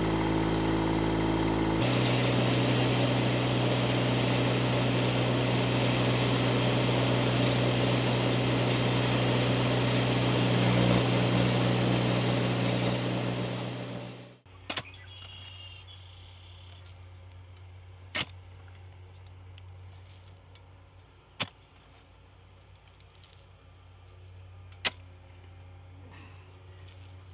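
A motor runs steadily, getting louder about two seconds in, then stops abruptly about halfway through. After that comes a low hum with four sharp clicks about three and a half seconds apart.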